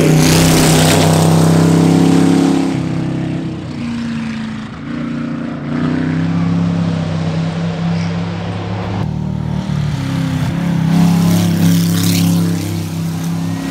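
Buick 6.6-litre Nailhead V8 of a 1930 Ford Model A hot rod running hard up a hillclimb, its engine note stepping up and down in pitch several times.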